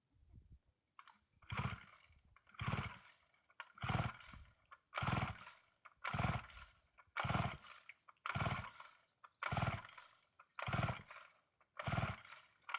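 A chainsaw's recoil starter cord being pulled over and over, about ten rasping pulls a little over a second apart, with the engine not catching between them.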